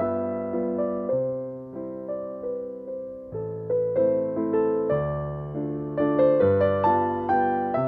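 Soft background piano music, gentle notes played one after another, each struck and left to fade.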